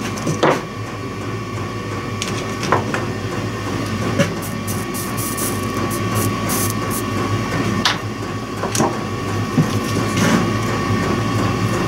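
Steady machine hum with a thin tone running through it, and scattered small clicks and rubs from handling the wire and soldering tools.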